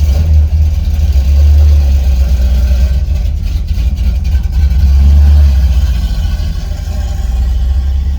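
Car engine and exhaust running, heard as a loud low rumble that swells about a second in and again around five seconds in.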